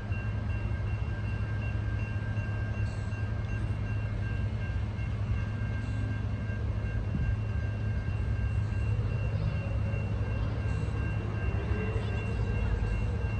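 Norfolk Southern intermodal freight train running, a steady low rumble with two thin steady high tones above it.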